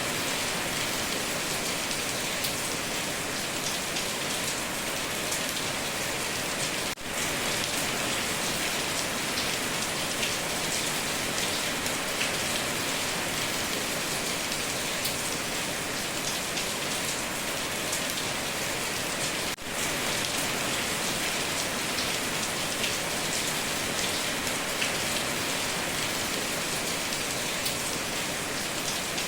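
Heavy rain drumming steadily on a tin roof, a dense even hiss of drops with no thunder, broken by two very short dips in level about a third and two-thirds of the way through.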